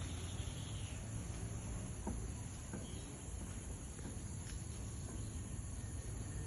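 Steady high-pitched chorus of insects such as crickets, over a low rumble, with a few faint short sounds about two and three seconds in.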